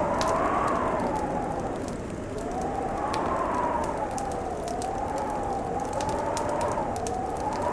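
Fireplace crackling with sharp, scattered pops over a howling winter wind whose pitch slowly rises and falls.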